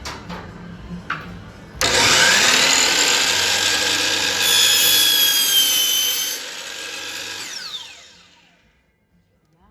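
Electric jigsaw starting suddenly about two seconds in and cutting wood for about four seconds. It then runs lighter and whines down to a stop near the end.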